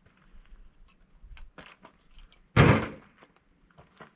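Scrap parts being handled: light clicks and taps, then one loud thunk about two and a half seconds in that dies away within half a second, like a piece of scrap set or dropped down hard.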